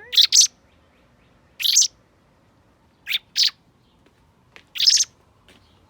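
A young hand-reared bird chirping: short, high, loud chirps in four bouts, some coming in quick pairs, a second or more apart.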